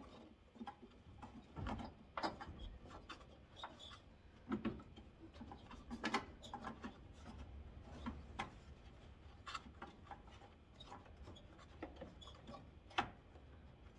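Scattered clicks, small knocks and rubbing of hand tools against metal and plastic parts as a fastener is worked in by hand in a cramped headlight mount.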